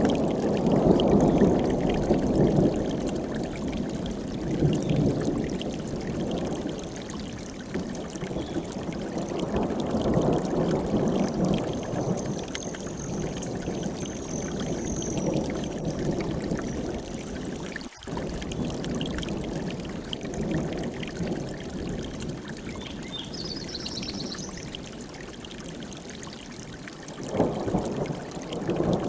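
Mountain stream rushing over rocks, a steady water rush that swells and eases. Two short high bird calls sound over it, about halfway and again later on.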